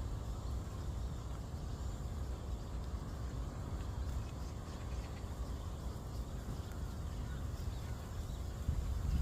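Wind rumbling on the microphone: a steady, low, fluctuating rumble with no clear pecking taps.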